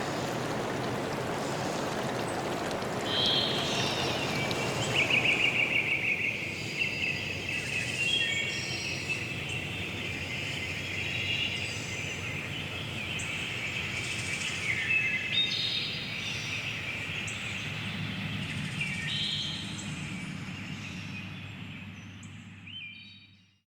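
Small birds singing in a run of chirps and trills, over a rushing-water haze that drops away about six seconds in. Everything fades out to silence near the end.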